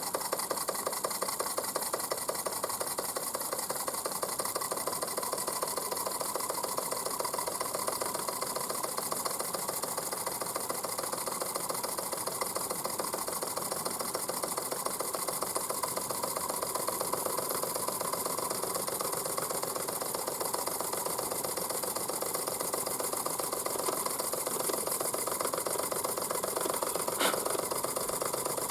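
Mamod SP8 model steam beam engine running under steam, beating out a fast, even, steady rhythm with a hiss over it. There is a single short click near the end.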